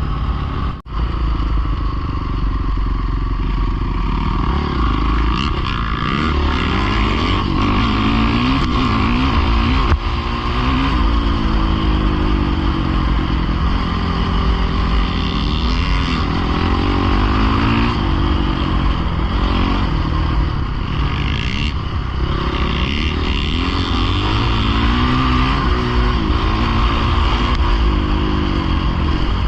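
Pit bike engine being ridden hard, its pitch repeatedly climbing under throttle and dropping back as the rider shifts and brakes, over a steady low rumble. There is a brief dropout in the sound about a second in.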